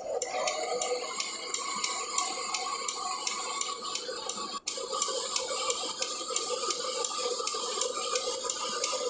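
Inside a moving cargo truck's cab: steady running and road noise with an even ticking, about three ticks a second, from the turn indicator after the navigation's exit-right cue. The sound drops out for an instant a little past halfway.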